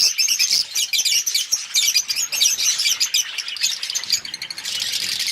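A flock of Fischer's lovebirds chattering: a dense, unbroken run of rapid, high-pitched chirps from many birds at once.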